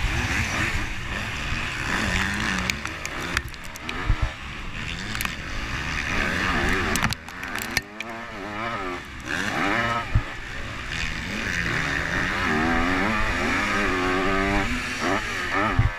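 Several motocross bikes racing, their engines revving up and falling back in pitch as the riders work the throttle through the course. The sound drops away briefly about seven seconds in, then the engines pick up again.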